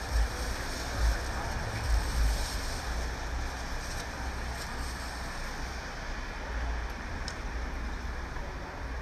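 Steady hiss of rain and wet-road traffic at a city street corner, with tyres swishing on the flooded asphalt. Wind buffets the microphone in low gusts during the first few seconds.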